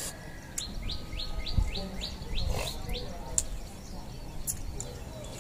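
A small songbird singing a quick run of about eight repeated chirps, about four a second, which stops around three seconds in. A few sharp clicks and low outdoor rumble sit underneath.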